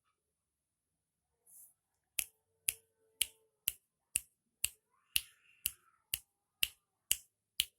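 Finger snapping, a steady run of sharp snaps about two a second that begins about two seconds in.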